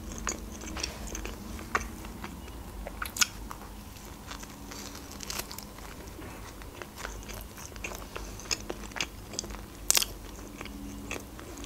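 Close-miked chewing and biting of shawarma baked in bread: soft, wet mouth sounds with scattered crisp crunches, the sharpest near the end.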